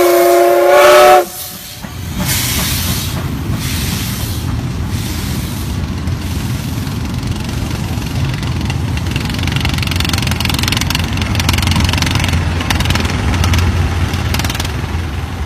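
Steam locomotive's whistle sounding a multi-tone chord that cuts off about a second in, then the train rolling past: freight wagons rumbling and clacking over the rails, with a diesel locomotive passing near the end.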